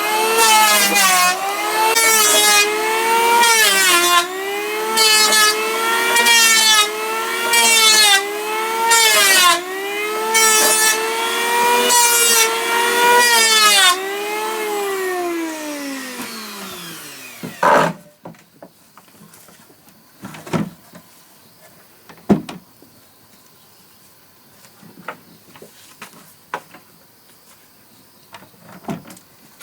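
Electric hand planer running in passes over wood, its motor pitch dipping under load about every second and a half. About fourteen seconds in it is switched off and winds down steadily over a few seconds. After that come a few scattered knocks.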